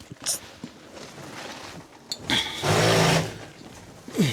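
Screw gun driving a self-tapping screw into sheet-metal ductwork: a short run of the motor of under a second, a bit past halfway, preceded by a few light metal clicks.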